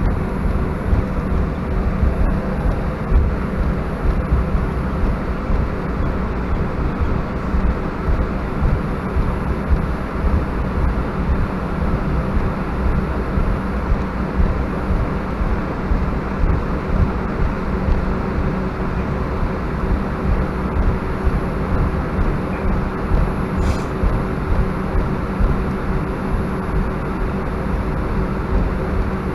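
Steady cabin noise of an Airbus A319-131 with its IAE V2500 jet engines running: a low rumble with a constant hum and no change in pitch.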